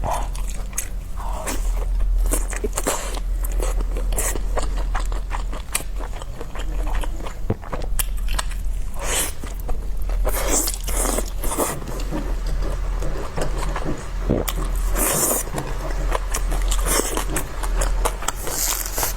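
Close-miked mouth sounds of a person eating large steamed dumplings: bites and wet, smacking chewing with many small clicks.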